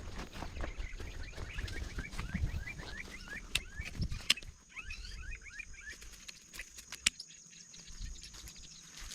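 A bird calling: a rapid series of short, falling chirps for several seconds, with a few sharp clicks in between and a steady faint high-pitched hum behind.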